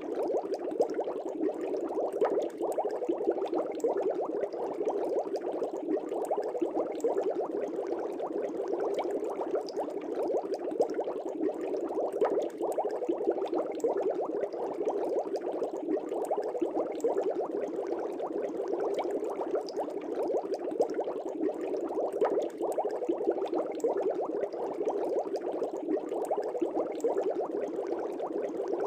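Aquarium air bubbles rising and bursting in a fish tank: a steady, dense bubbling without pause.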